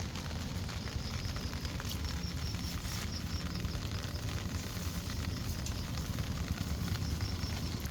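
Rain pattering and crackling steadily, over a low rumble, with a faint high chirping that repeats in quick runs of pulses.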